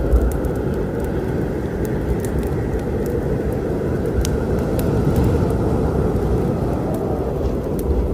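Wood fire crackling with scattered sharp pops over a steady low storm rumble.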